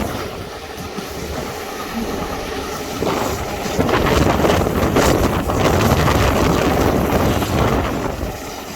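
Steam-hauled heritage train running along the line, heard from an open carriage window with wind buffeting the microphone. The sound grows louder about three seconds in.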